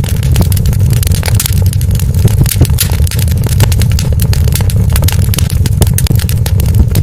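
Wood fire crackling: many irregular sharp pops and snaps over a loud, steady low rumble.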